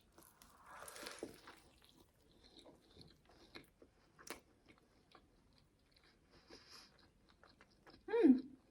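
Close-miked chewing of a bite of fried chicken fillet, donut and fries: a crunchy bite about a second in, then soft chewing and mouth clicks. Near the end comes a short "mmm" hum falling in pitch, the loudest sound.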